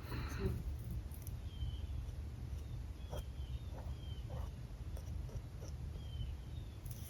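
Alcohol marker nib drawing on paper in short scratchy strokes, a sharper one right at the start and a few more a few seconds in, over a steady low hum.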